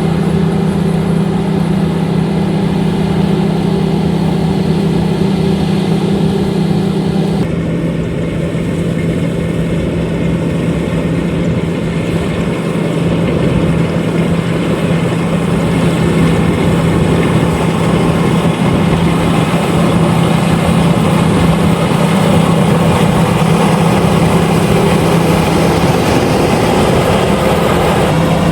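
LOVOL RG130EVO rice combine harvester running with a steady engine drone. About a quarter of the way in the note drops suddenly, then the sound grows louder and fuller through the second half.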